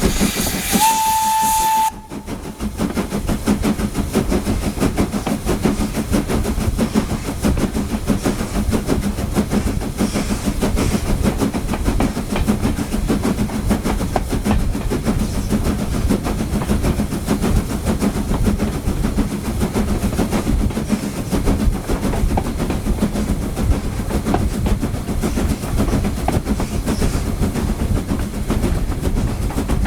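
The steam whistle of LSWR S15 locomotive No. 506 gives one short blast, a hissy start settling on a single steady note, cut off about two seconds in. After it comes the steady rumble and rattle of the train running along the track.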